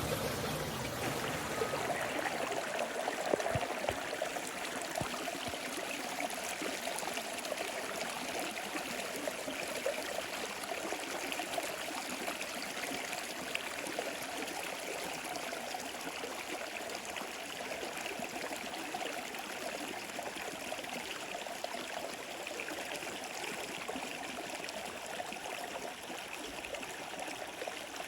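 Water of a small stream running steadily over rocks, a continuous rushing trickle.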